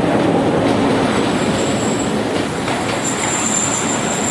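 Train running along the rails, a loud, steady rumble, with a high, steady metal squeal that starts about a second in and grows louder about three seconds in.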